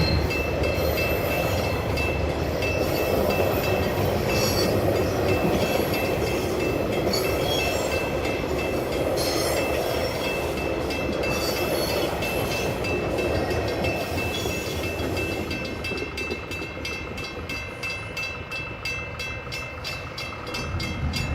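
Freight train of container wagons rolling across a level crossing with a clickety-clack of wheels over rail joints, while the crossing bells keep ringing in an even repeating pattern. The train noise drops away about three-quarters of the way through, and the bells carry on.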